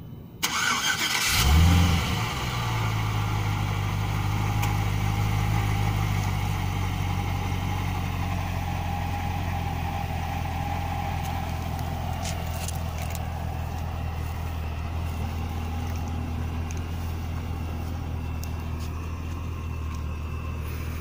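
A 2010 Cadillac CTS-V's 6.2-litre supercharged LSA V8 is started by remote start. The starter cranks briefly, the engine catches with a quick rev flare about a second and a half in, then settles into a steady idle that eases slightly quieter over the following seconds.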